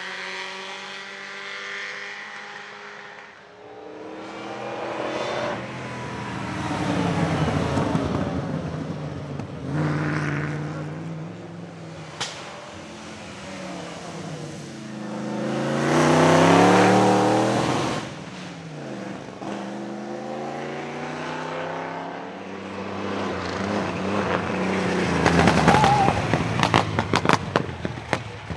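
Vintage racing car engines revving hard under acceleration, pitch climbing and dropping back as the cars pass, several times over. Near the end comes a run of sharp exhaust crackles and pops.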